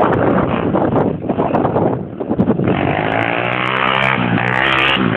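150cc pit bike engine running. For the first couple of seconds it sounds rough and noisy, then about halfway in it settles into a clear, steady engine note.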